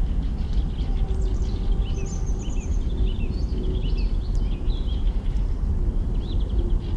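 Birds chirping and trilling in short, quick phrases over a low steady rumble, with an occasional faint crackle from a burning campfire.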